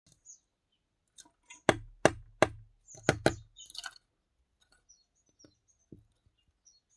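Five sharp hollow knocks in under two seconds, then a short scrape: birds knocking a coconut shell about on a window ledge. Faint, short, high bird chirps follow.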